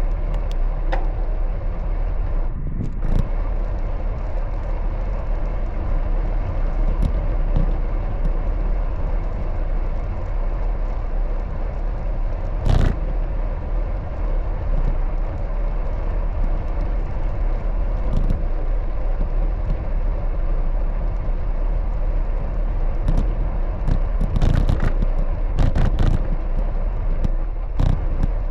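Steady road and wind noise on a moving bicycle ride, with a few sharp clicks and rattles, the loudest about 13 seconds in.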